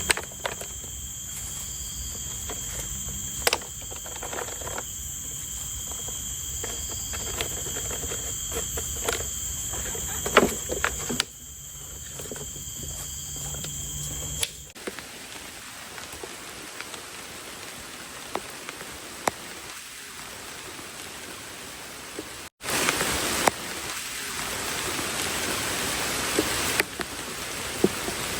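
Steady high-pitched insect chirring, like crickets, over scattered small knocks and clicks. About halfway through, after a cut, it gives way to steady rain hiss, which gets louder after a brief break near the 23-second mark.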